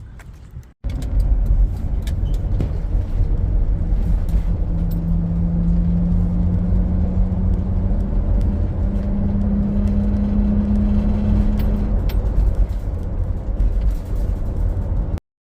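Road vehicle running, a loud low rumble with a steady engine note that rises a little partway through, cutting off suddenly near the end.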